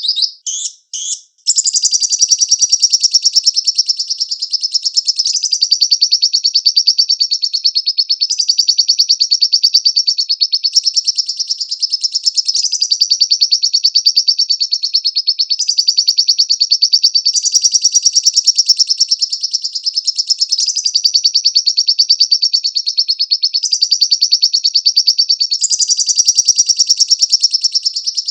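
Lovebird singing: a few short chirps, then from about a second and a half in one long, unbroken song of rapid high chattering trills.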